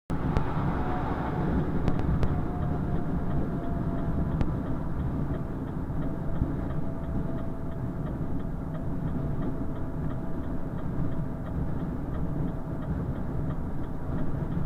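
Steady engine and road rumble heard inside the cab of a Renault Trucks T520 lorry on the move, with a faint steady whine and light, regular ticking over it.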